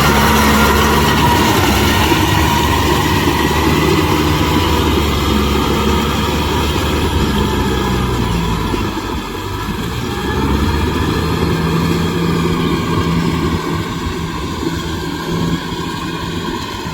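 Kubota M6040SU tractor's four-cylinder diesel engine running steadily under load while driving a rotavator through mud. The engine note sags briefly about nine seconds in and then picks up again.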